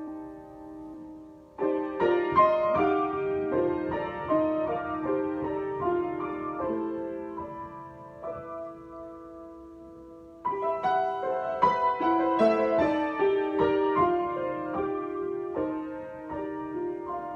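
Solo piano improvisation. A held chord fades, a flowing phrase of notes begins about a second and a half in and dies down to a sustained chord, then a louder phrase starts about ten and a half seconds in.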